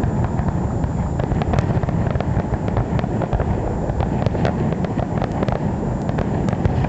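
Fireworks going off: many small sharp crackles and pops scattered over a steady low rumble.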